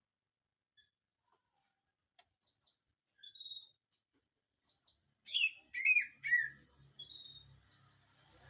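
White-rumped shama singing in short phrases of clear whistled notes, beginning about two seconds in. Just past the middle comes its loudest phrase, three slurred notes falling in pitch, and a faint low hum sits underneath from there on.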